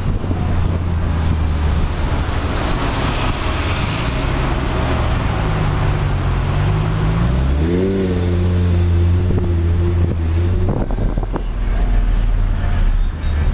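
Lamborghini Gallardo V10 engine running, its pitch climbing about six to eight seconds in as it revs up, holding higher, then falling away about eleven seconds in. Wind rushes over the microphone in the first few seconds.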